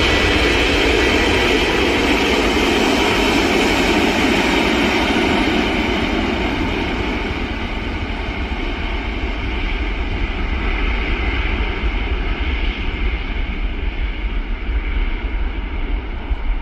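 Airbus A330-300 airliner's twin General Electric CF6-80E1 turbofans, a loud steady jet noise that passes and then recedes. The sound gradually softens and loses its high end over the last ten seconds.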